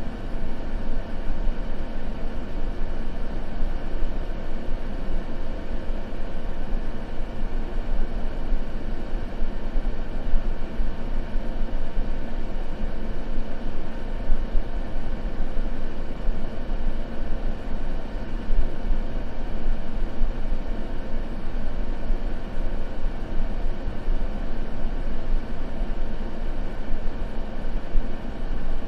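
A steady, unbroken white-noise ambience track, weighted toward the low end so that it sounds like a deep, even rumble, with faint steady hum tones underneath.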